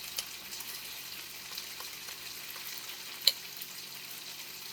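Food sizzling and crackling in a temperature-controlled electric wok, with a single sharp click a little past three seconds in.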